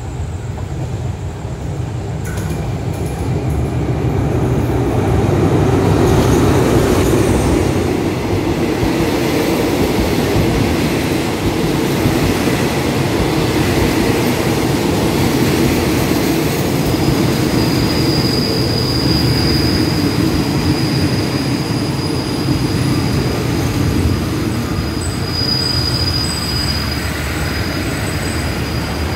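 Passenger express train pulling into the station alongside the platform. The sound builds over the first few seconds as it arrives, then the coaches roll steadily past. A thin high squeal from the wheels and brakes comes in a little past halfway and flickers near the end as the train slows to stop.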